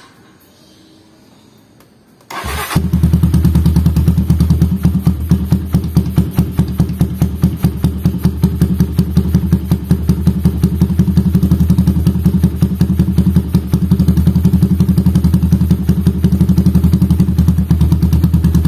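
Motorstar Cafe400 motorcycle's 400cc engine is started about two seconds in, catches at once and settles into a steady, evenly pulsing idle. It is being run briefly after the oil change so the fresh oil circulates before the level is checked again.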